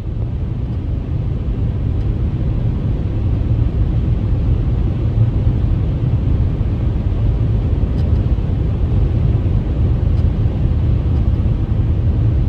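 Steady low rumble of a vehicle on the move, road and engine noise, building slightly over the first few seconds and then holding level.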